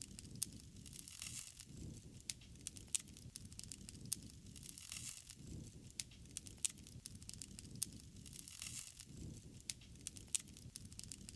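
Wood fire crackling, with sharp irregular pops over a low steady rush.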